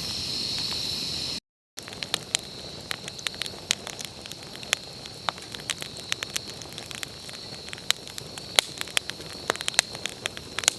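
Wood campfire crackling, with irregular sharp pops and snaps. In the first second or so there is a steady high-pitched hiss, then a brief silent break.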